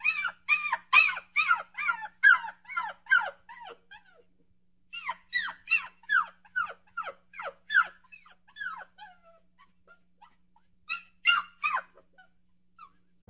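Puppy yelping: quick runs of short, high-pitched yips that fall in pitch, in three bouts with short pauses between, the last one brief.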